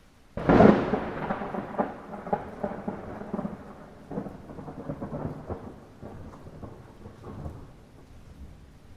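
Rain with a sudden clap of thunder about half a second in. The thunder rumbles and crackles unevenly as it fades away over the following several seconds.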